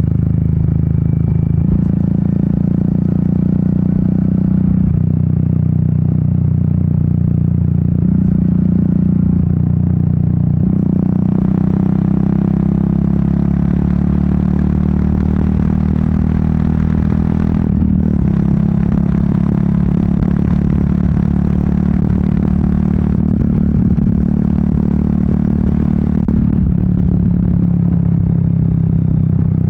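Royal Enfield Meteor 350's single-cylinder engine and exhaust running under way, its note stepping up and down several times as the throttle and gears change. Wind rush grows louder through the middle stretch and drops away near the end.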